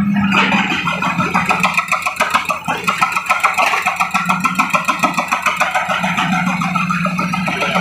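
Heavy construction machine running, its engine noise pulsing rapidly and evenly, about four to five beats a second.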